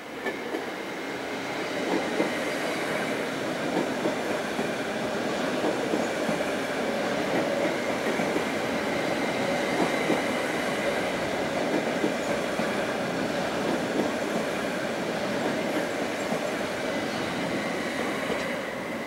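SOB Traverso (RABe 526, Stadler FLIRT) electric multiple unit passing close over a level crossing: a steady rolling rumble of wheels on rails with scattered clicks, and a faint high wheel squeal.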